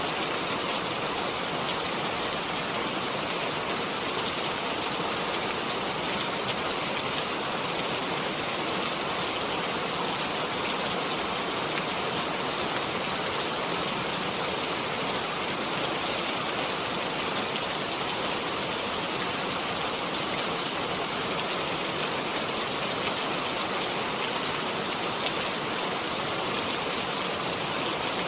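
Steady rainfall, a dense even hiss of drops pattering on a surface with no let-up.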